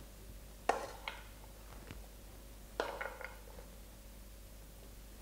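Kitchen utensil knocking and scraping against a dish in a few short clinks, the two loudest about a second and about three seconds in.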